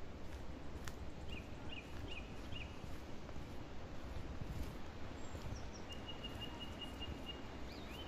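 Forest birds calling over a steady low background noise: a few short chirps, then a quick run of even, same-pitched notes lasting over a second, with a single sharp click about a second in.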